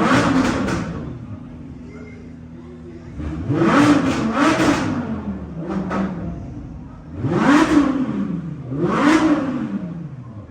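Car engine revved hard in repeated bursts, each rev climbing in pitch and falling back: one as it begins, a pair about four seconds in, and another pair near the end.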